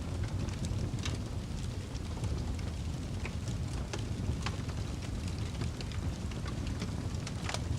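Wood fire burning in a fireplace, crackling and popping at irregular times over a steady low rumble, with a sharper pop near the end.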